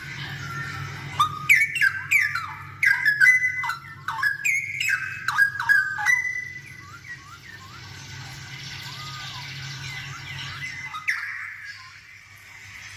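Straw-headed bulbul (cucak rowo) singing: a run of loud, rich whistled phrases that glide up and down over the first few seconds, then softer scattered notes. A steady low hum sits underneath and stops near the end.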